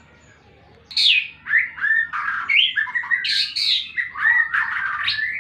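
White-rumped shama singing loudly, starting about a second in: a fast, unbroken run of varied phrases that swoop up and down in pitch. The bird is fresh out of its moult and in full challenge song.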